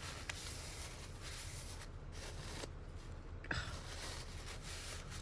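Soft paper rustling and handling as a glued paper piece is set and pressed onto a journal page, with a few light taps and a slightly louder rustle about three and a half seconds in.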